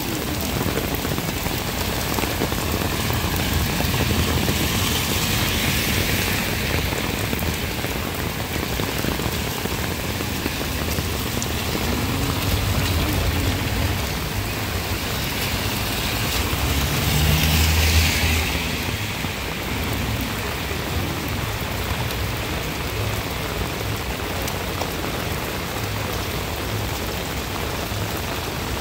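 Heavy summer downpour (소나기) falling steadily on paved streets and puddles. A little past halfway a car passes on the flooded road and briefly swells above the rain with tyre noise.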